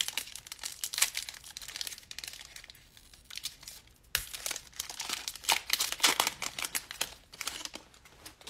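Plastic trading-card pack wrapper being torn open and crinkled in the hands, a dense run of irregular crackles with a brief lull about halfway.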